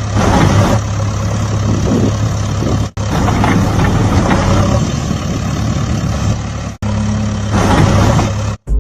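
Engine running steadily with a low hum, briefly cut off about three, seven and eight and a half seconds in, with rougher, louder stretches near the start and near the end.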